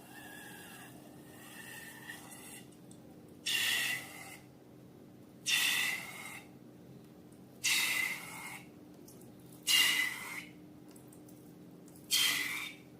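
Slime being squeezed by hand, giving five short, airy squelches about two seconds apart, each with a faint whistly edge.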